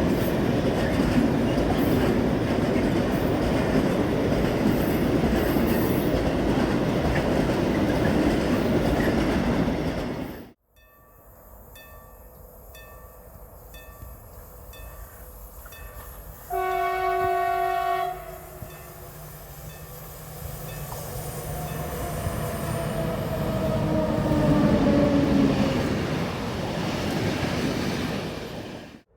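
A train passing close by with a loud, steady rumble that cuts off after about ten seconds. Then a single train horn blast about a second and a half long, followed by another train coming past, its sound building to a peak and fading, with tones that fall in pitch as it goes by.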